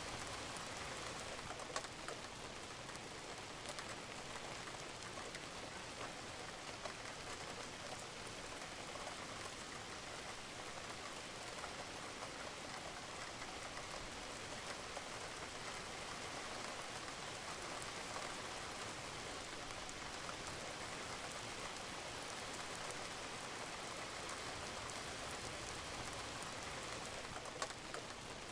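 Steady rain falling on a roof, an even hiss with scattered drips and a few sharper drop ticks.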